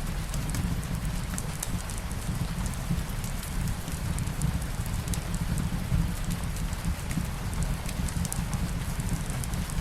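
Fireplace fire crackling, with scattered small pops over a steady low rumble, mixed with light rain falling.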